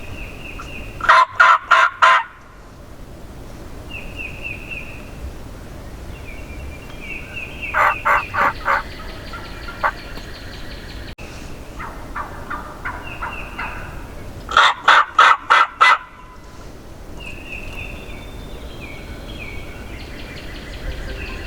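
Wild turkey gobbling three times, each gobble a quick rattling burst; the first and last are loud and close, the middle one fainter. Small birds call between the gobbles.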